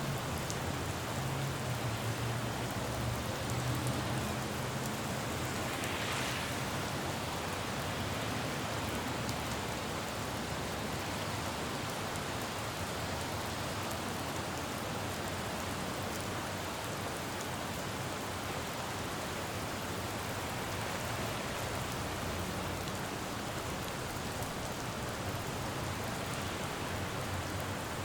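Steady rain falling on a city road, with a low traffic hum in the first part and a brief hiss about six seconds in.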